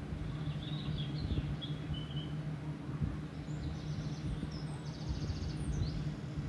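Small birds chirping over a steady low hum and background noise: a brief twitter about a second in, then a fast, high trill of repeated notes in the second half.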